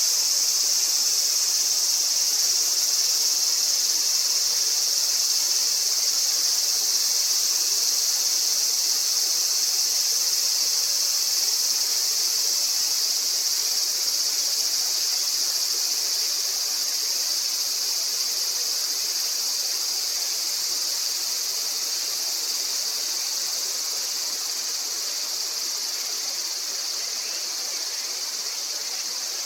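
A continuous, high-pitched chorus of insects, steady without breaks and easing slightly in loudness toward the end.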